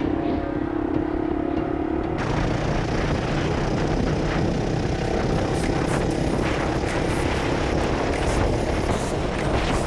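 Honda CRF450RL single-cylinder four-stroke engine running under way; for the first two seconds its steady note is plain, then rushing wind on the microphone takes over and covers it.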